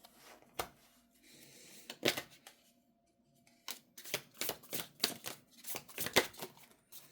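Tarot cards being handled against each other and the table: a few single papery snaps, then a quick run of snaps and slaps from about halfway through.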